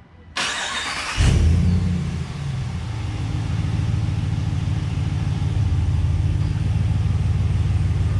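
A 2019 Ram 1500's 5.7-litre Hemi V8 cranked by the starter, catching about a second in with a loud flare, then settling into a steady idle with a low rumble through a muffler-deleted, straight-through exhaust.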